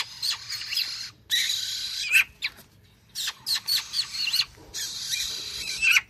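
Several pet birds chirping and calling, many short calls that sweep up and down in pitch, in quick runs with brief pauses between them.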